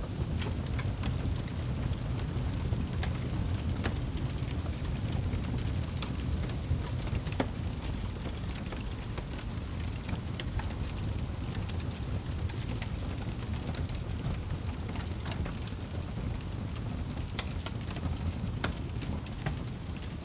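Wood fire in a fireplace crackling: frequent small, irregular pops and snaps over a steady low rumble of burning logs.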